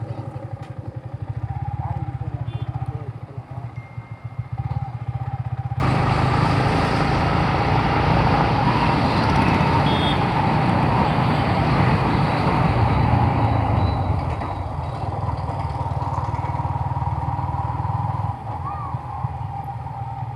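Motorcycle engine running steadily while riding. About six seconds in, the sound jumps abruptly louder and fuller.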